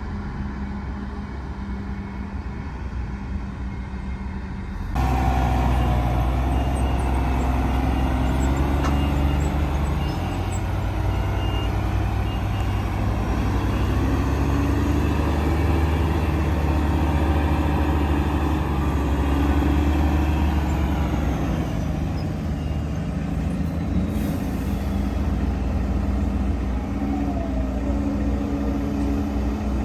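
Heavy diesel earthmoving machinery running, the engine sound jumping suddenly louder about five seconds in and easing back a little past the twenty-second mark.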